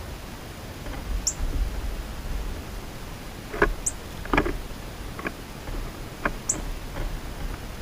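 A small bird's short, high chip call, falling in pitch and repeated about every two and a half seconds. Several sharp taps and knocks of birds at the feeder come between the calls, over a low outdoor rumble.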